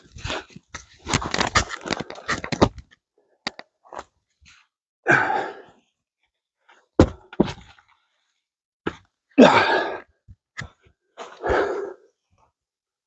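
A heavy wet log being flipped end over end: scattered knocks and two sharp thuds as it lands, with a few short grunts of effort.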